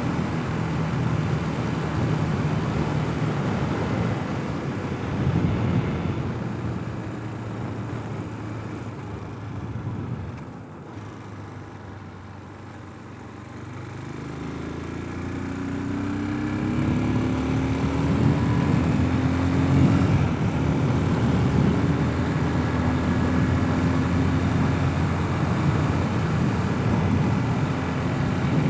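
Brozz/Hawk 250 enduro motorcycle engine running under way, with road and wind noise. The engine eases off and quietens about a third of the way in, then pulls back up with rising revs and holds a steady cruise.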